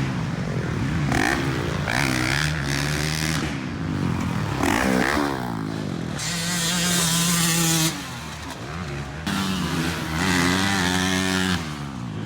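Dirt bike engine being ridden hard, its pitch rising and dropping again and again as it revs up and eases off.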